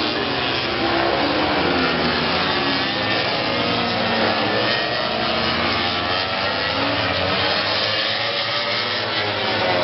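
Several motorcycle engines running at once, their pitches rising and falling as they rev.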